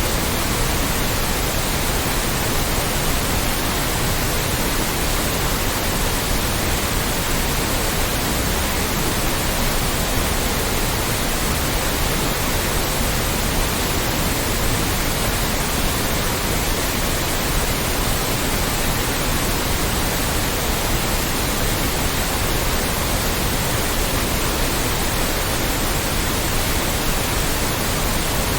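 Loud, steady synthetic white noise: an even hiss spread across all pitches, unchanging throughout.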